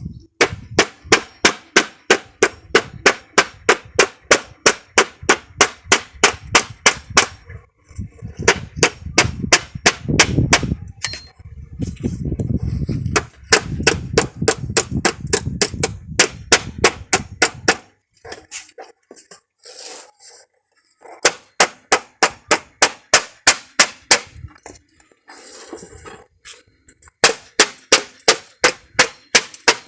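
Rapid, evenly repeated blows with a metallic clang, about four a second, in long runs broken by a few short pauses.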